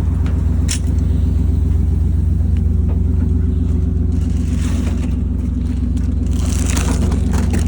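Pickup truck engine idling steadily, left running to warm up, with a single click about a second in.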